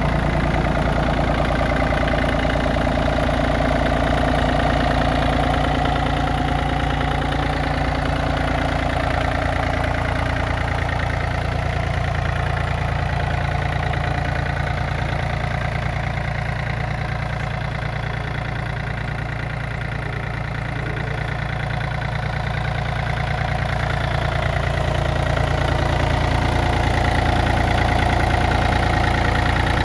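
Yanmar F215D compact tractor's three-cylinder diesel engine running steadily, growing a little quieter midway and louder again near the end.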